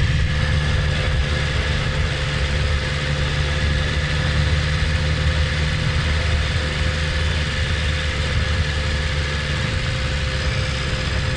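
BMW S1000RR's inline-four engine idling steadily, with no revving.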